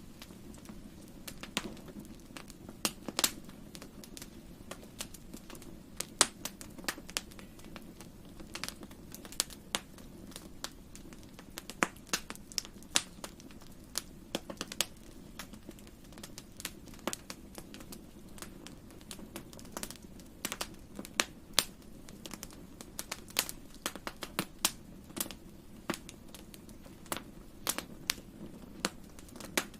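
Wood fire crackling in a fireplace: irregular sharp pops and snaps, a few a second, some much louder than others, over a steady low rumble.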